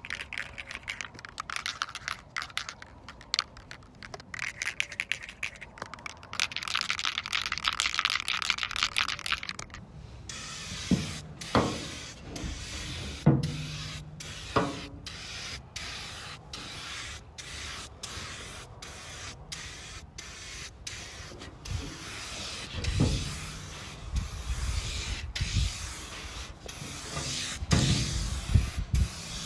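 Rust-Oleum Turbo Can aerosol spray paint hissing in passes, loudest for a few seconds about a third of the way in. A few knocks and handling noises come around the middle and near the end.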